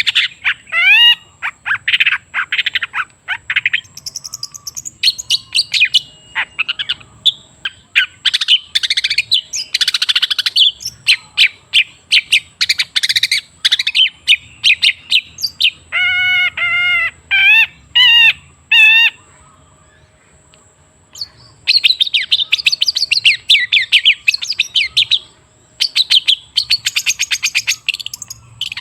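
Long-tailed shrike (cendet) singing a fast, varied chattering song of harsh and whistled notes, with a pause of about two seconds a little past the middle.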